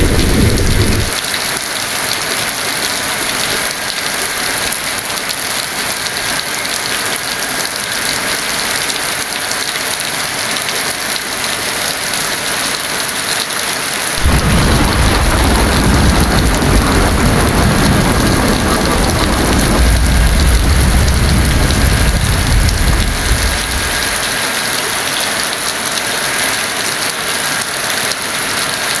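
Heavy rain falling in a steady hiss. A roll of thunder fades out in the first second, and a second long roll of thunder rumbles in about halfway through, swells, and dies away some ten seconds later.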